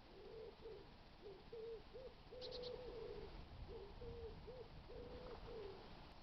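Pigeon cooing: a series of soft low coos in repeated phrases, with a brief high chirp from a small bird about two and a half seconds in.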